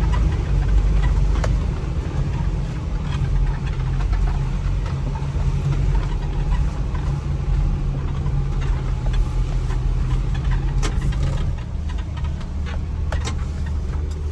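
Motor vehicle engine running steadily with a low hum, the engine note dropping a little near the end, with a few light clicks and knocks over it.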